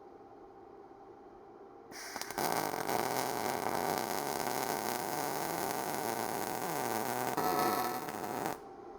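Arccaptain MIG205MP MIG welder laying a bead on thin sheet metal: a steady, loud crackle that starts about two seconds in and stops just before the end. The weld is running hot enough to blow a hole through the thin metal.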